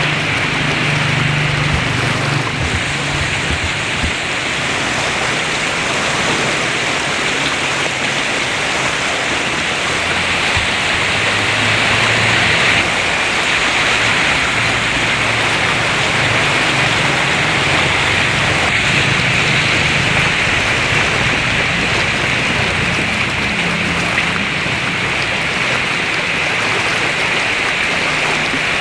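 Heavy rain pouring down steadily, an even hiss of rain on surfaces that keeps up without a break.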